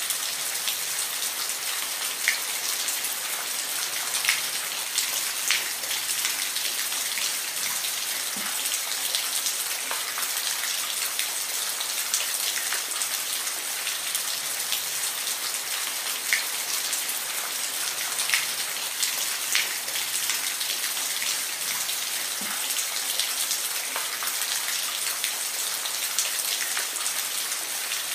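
Steady rain falling, an even hiss with individual drops ticking sharply on a hard surface here and there.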